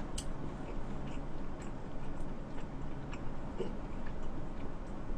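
A person chewing sushi close to the microphone: faint, scattered small wet clicks and smacks over a low steady hum.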